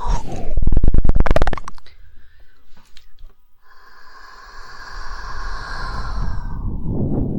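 Close-miked ASMR mouth sounds: a fast woodpecker-style tongue-click rattle lasting about a second and a half, then after a short pause a long breathy, hissing mouth sound of about three seconds.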